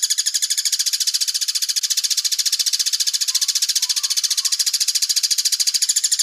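Rapid, even, high-pitched trill of a songbird call from a masteran birdsong recording, pulsing about ten times a second without a break.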